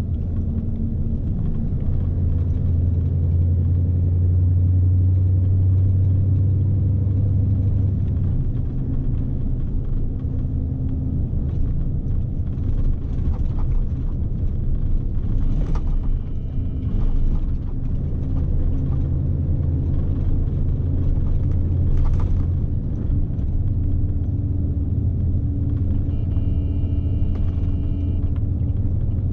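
Scania S520's V8 diesel engine running under load, heard inside the truck cab as a steady low drone with road rumble. Two brief knocks or rattles stand out, about halfway through and again some seconds later.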